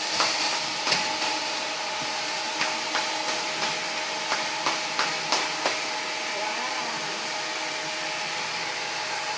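Vacuum cleaner running steadily, with a string of short knocks about halfway through as it bumps along.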